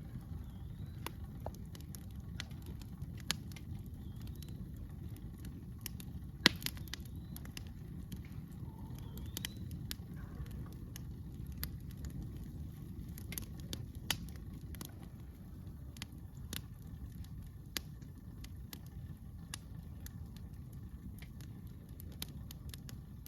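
Wood campfire crackling, with irregular sharp pops and snaps, the loudest about six and a half seconds in, over a steady low rumble.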